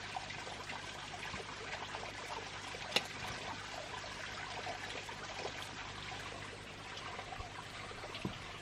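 Water trickling and splashing, a steady babble with one sharp click about three seconds in.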